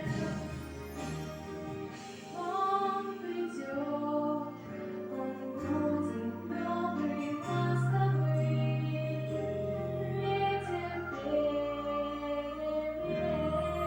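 A female voice singing a song over instrumental accompaniment, with held notes and a choir-like backing.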